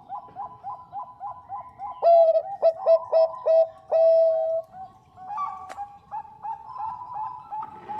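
Zebra dove (perkutut bangkok) singing: a quick series of short cooing notes, about four a second. About two seconds in comes a louder phrase of notes that ends on a longer held coo, and then the quick notes go on.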